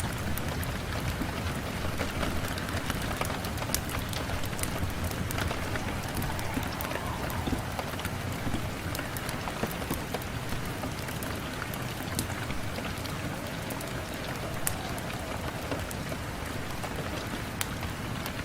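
Steady rain on a window glass, an even wash of noise with many small sharp ticks of drops scattered through it.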